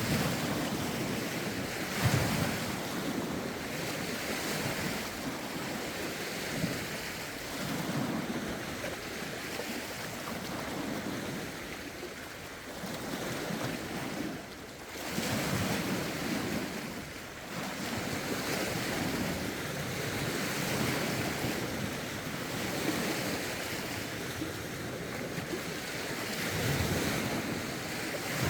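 Wind-driven lake waves washing and lapping against the shore in a steady series of swells, with wind buffeting the microphone.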